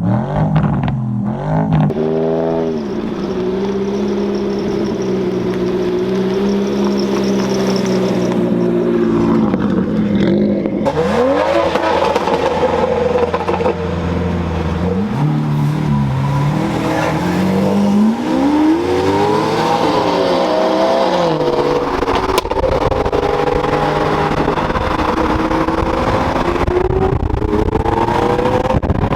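Performance car engines revving and accelerating hard, their pitch climbing and dropping back several times as they go through the gears, at times two engines overlapping.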